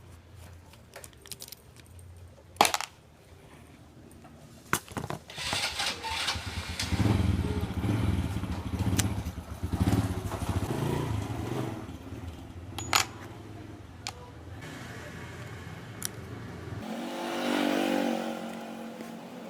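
A motor running with a steady low hum that swells for a few seconds and stops abruptly near the end, with sharp clicks and knocks over it.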